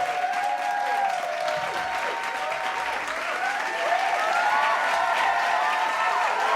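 Crowd clapping and cheering, with many voices calling out at once.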